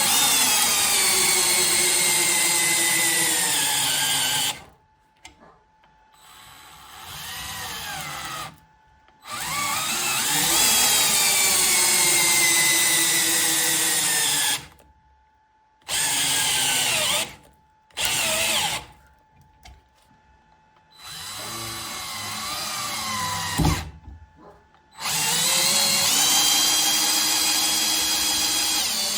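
Parkside PSBSA 20-Li C3 20 V cordless 3-in-1 impact driver running in a series of bursts with short pauses between them. In several bursts the motor's whine drops in pitch as it is loaded; the last burst holds a steady pitch. A single sharp click comes shortly before the last burst.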